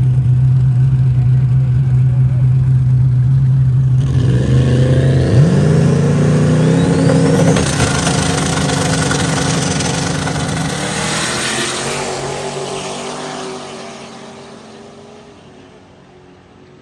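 Twin-turbo LS V8 drag car held at steady revs on the line, then launching about four seconds in with the revs climbing sharply. It accelerates hard away down the track and the sound fades steadily over the last several seconds.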